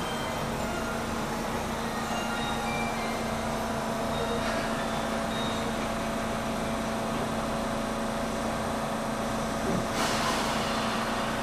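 JR Shikoku 8000 series electric limited-express train standing at the platform with a steady hum from its equipment. About ten seconds in comes a short hiss of released air that fades within a second.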